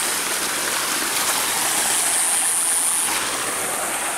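Water pouring down a waterfall, a steady rushing hiss.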